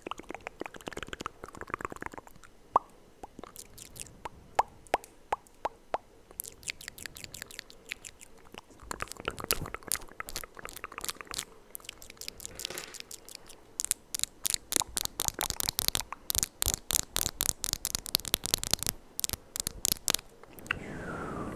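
ASMR mouth sounds close to the microphone: wet clicks and smacks, sparse at first, then a fast, dense run of clicking in the second half.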